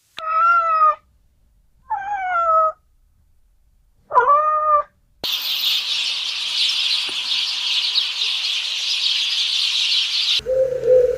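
A cat meowing three times, each meow under a second long and gliding in pitch. Then a steady, high-pitched hiss runs for about five seconds and cuts off abruptly.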